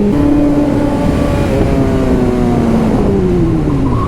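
Sportbike engine running under way, its pitch stepping up right at the start and then dropping steadily over the last couple of seconds as the revs come down.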